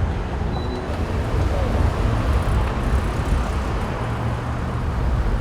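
Road traffic: a steady rumble of vehicles moving along a street.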